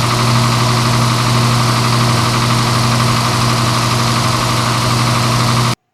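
Engine idling steadily with a strong low hum that holds one pitch, then cuts off suddenly near the end.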